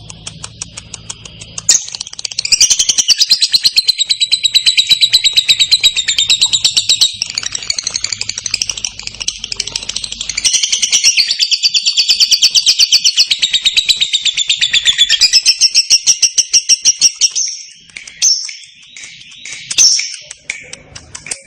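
Lovebird singing a long, clear ngekek: a rapid, continuous chattering trill of high notes lasting about fifteen seconds, with a short break about halfway, then a few separate short chirps near the end.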